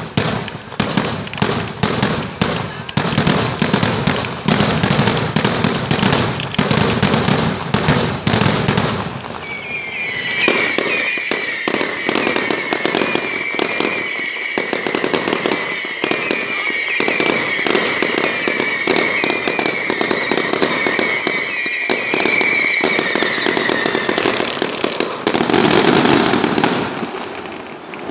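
Fireworks display: a rapid barrage of bangs for about nine seconds, then a long wavering high whistle over continued popping, and a dense burst of bangs and crackle near the end.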